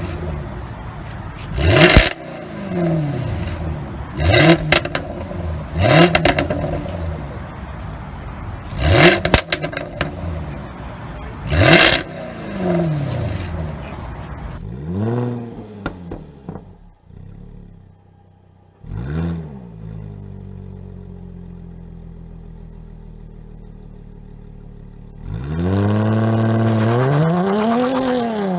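Jaguar F-Type engine and exhaust being revved in quick blips, about five times in the first half, each rev ending in loud sharp exhaust pops on the overrun. Later it idles steadily, then a longer rev climbs and falls near the end.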